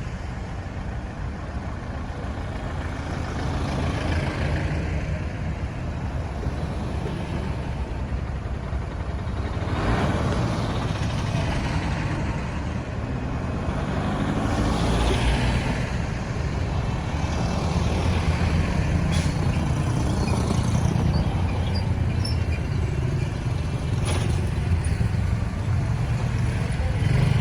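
Traffic on a busy road: a steady rumble of engines and tyres, with several vehicles passing one after another, including trucks, cars and motorbikes.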